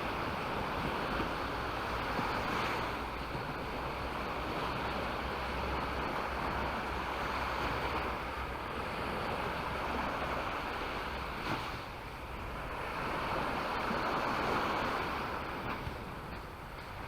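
Sea waves breaking and washing up a beach, the surf swelling and fading in slow surges every few seconds, with low wind rumble on the microphone.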